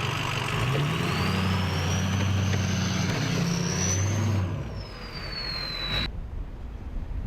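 A motor vehicle, likely a truck, driving by: a steady engine hum with a high whine that rises and then falls, fading after about four seconds. The sound cuts off abruptly about six seconds in, leaving wind noise.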